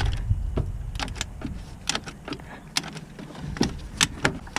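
Irregular sharp metallic clicks and clinks of hand tools working on the starter bolts in a car's engine bay.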